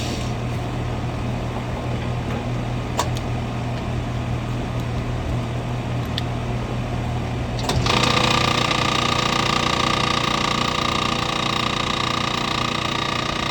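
Central air-conditioner condenser unit humming steadily, with a single click. About eight seconds in, the compressor and condenser fan start up with a sudden, louder, steady whining run.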